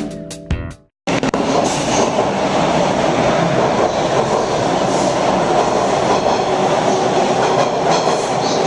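After the tail of intro music cuts off about a second in, a TTC subway train runs along the track with a steady, loud rumble and faint clicking of the wheels.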